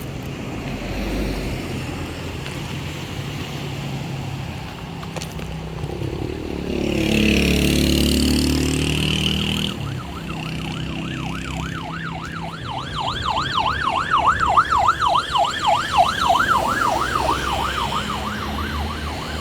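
A vehicle passes about seven seconds in. Then an emergency-vehicle siren starts up in a fast yelp, its pitch rising and falling about three times a second, over steady background noise.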